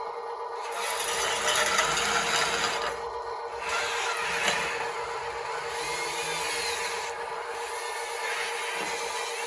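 Radio-controlled hydraulic construction machine working: a steady whine from its pump and motors, with louder scraping and grinding stretches as it works the dirt, and a whine that rises and falls in pitch about halfway through.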